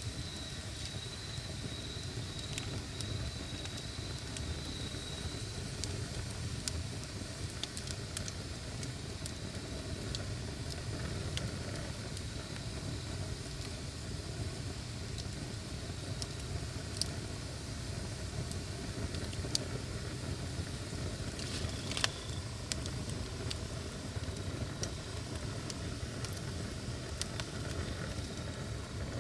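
Wood fire burning with a steady low rumble and scattered sharp crackles and pops, a few louder ones in the second half. A thin high steady tone runs through the first few seconds.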